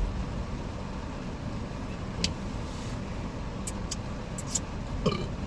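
Steady hum of a car idling, heard from inside the cabin, with a few short light clicks.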